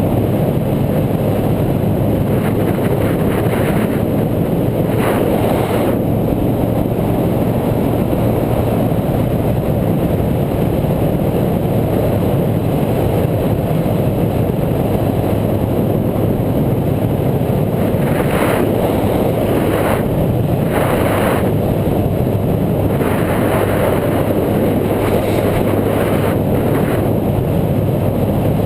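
Steady wind rush and rumble on the camera microphone while riding, with a low steady hum underneath and a few brief hissy gusts.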